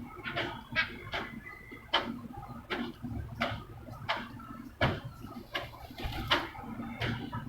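Pigeons pecking at a hard surface: sharp, irregular taps, roughly two a second.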